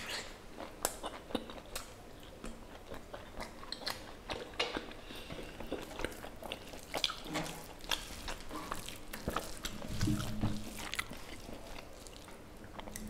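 Close-miked mouth sounds of a person eating pork curry and rice by hand: chewing with irregular wet smacks and clicks, along with the squish of fingers mixing rice into the curry.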